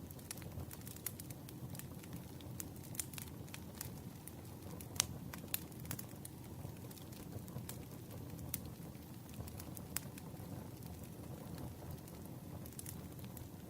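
Campfire crackling, with irregular sharp pops of wood over a steady low rush of the flames; one louder pop about five seconds in.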